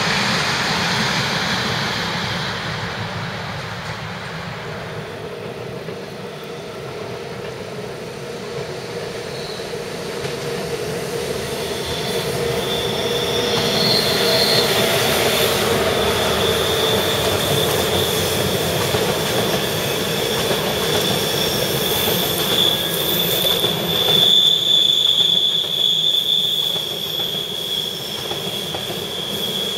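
Trains running by on the rails: a car-carrier freight train rumbles past and fades. Then, after a lull, an ÖBB electric locomotive and its passenger coaches come round a tight curve, and from about halfway through the wheels give a steady high-pitched squeal on the curve.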